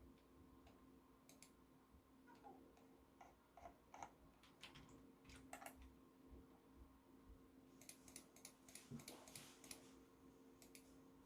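Faint computer keyboard typing: scattered clicks and taps, then a quick run of keystrokes about eight seconds in.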